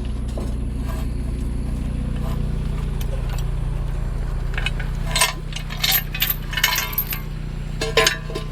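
Vehicle engine idling steadily, its hum changing slightly about five seconds in. Over it, in the second half, come a series of sharp metallic clinks and rattles.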